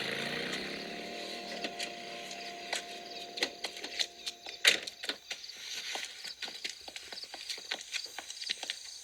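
A car engine winding down and fading out, followed by a run of irregular taps and clicks with one loud knock about halfway through. Crickets chirp faintly in the background.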